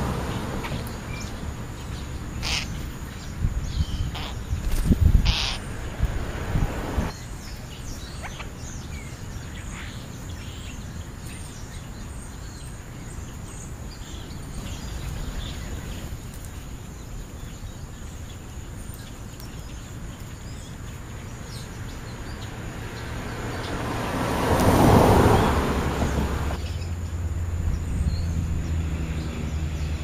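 Birds calling now and then, with short sharp calls in the first few seconds. About 24 seconds in, a vehicle passes with a swelling and fading whoosh, and a low engine hum follows near the end.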